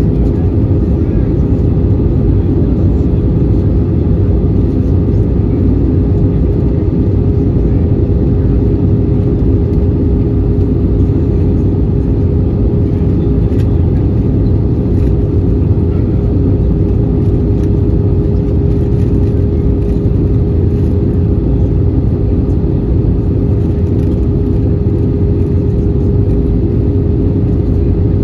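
Steady cabin noise of an Airbus A320-214 in flight, heard from a window seat: a constant rush of air with an even engine hum from its CFM56 turbofans.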